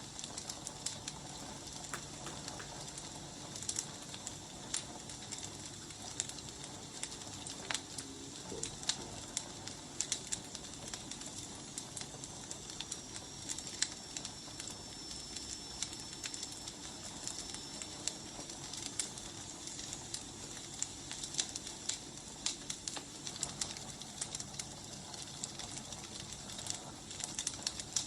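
Wood fire crackling: irregular sharp pops and snaps over a steady soft hiss, with a faint thin high whistle through the middle.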